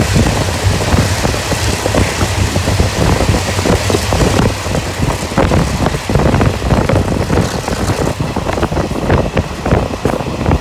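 Running noise of a Taiwan Railways South-Link Line ordinary (non-air-conditioned) train, filmed at its open window: a loud rush of wind and wheels on the rails with many irregular knocks. The hiss thins a little near the end as the train leaves a concrete gallery for open coast.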